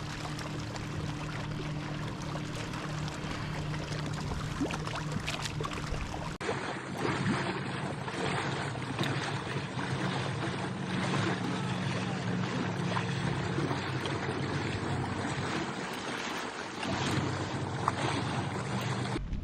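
Wind and water noise around a fishing kayak on a lake, with a low, steady hum underneath.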